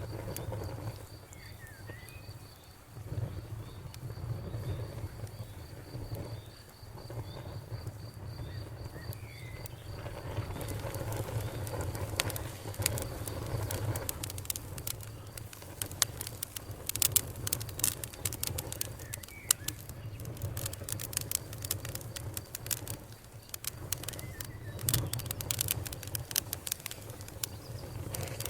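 Campfire burning with a low steady rumble, its crackling pops growing much denser from about a third of the way in. An insect trills steadily and high for the first third, then stops.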